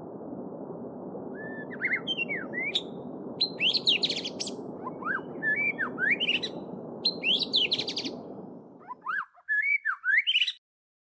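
Small songbirds chirping and singing in quick, varied phrases over the steady rush of a babbling stream. The stream sound cuts off suddenly about nine seconds in, and the birdsong stops a second or so later, leaving silence.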